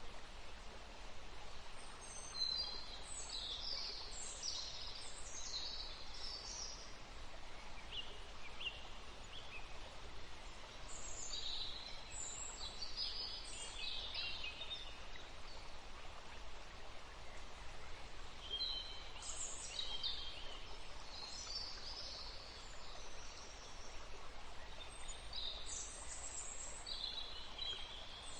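Songbird chirping and trilling in high, quick phrases. Four bursts of a few seconds each come about every eight seconds, over steady outdoor background noise.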